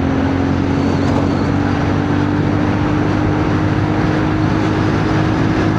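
CFMoto 450NK motorcycle engine running steadily at road speed, its pitch holding nearly even with a slight rise, over heavy wind rush on the helmet microphone.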